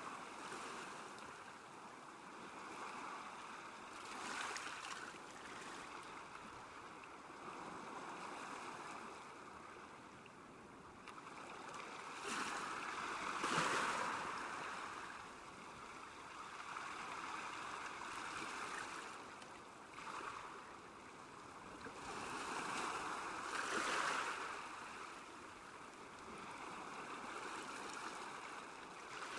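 Small waves lapping at a lakeshore: a steady wash of water that swells and fades every few seconds, loudest near the middle.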